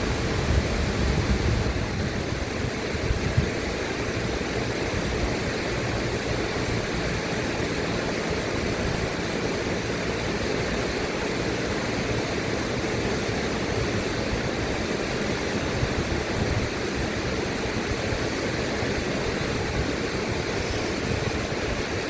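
River water rushing in a continuous, even wash. It is a little louder and choppier for the first couple of seconds, then settles to a steady flow.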